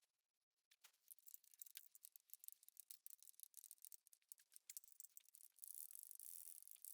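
Near silence, with faint scattered small clicks and rustles and a soft hiss that comes in near the end.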